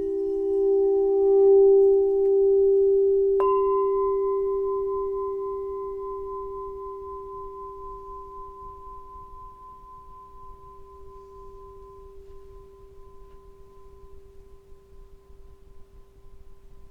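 Singing bowls ringing: a low, steady tone swells and then fades slowly. About three and a half seconds in, a sharp strike adds a higher ringing tone, which also dies away gradually.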